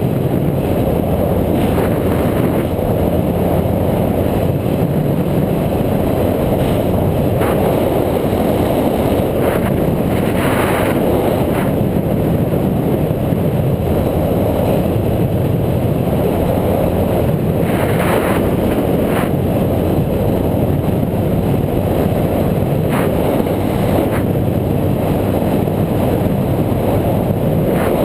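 Steady, loud rush of wind buffeting a camera microphone while riding, with the occasional faint knock or rattle.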